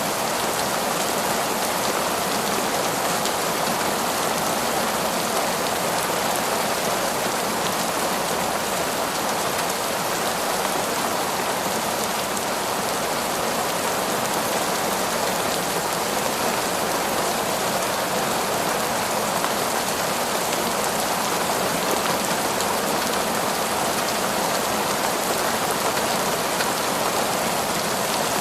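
Heavy, torrential rain falling in a forest, a steady dense hiss of drops that does not let up.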